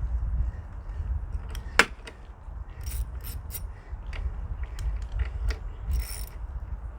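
Socket ratchet clicking in short runs as bolts are worked loose on a lawn mower, with one sharp metallic click about two seconds in.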